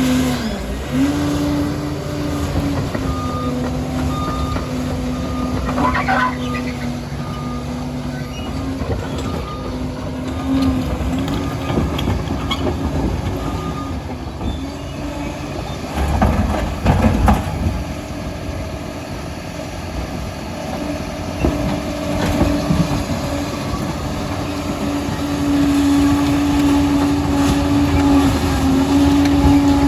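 Liebherr PR 746 crawler dozer working: its diesel engine runs at a steady pitch that sags briefly a few times under load, over track clatter. A heavier low rumble comes about halfway through.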